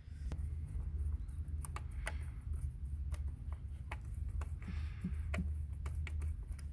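Hand tools clicking and clinking against metal in irregular sharp strikes, a dozen or so, as dismantling of the 1.6 HDi diesel's injectors begins, over a steady low rumble.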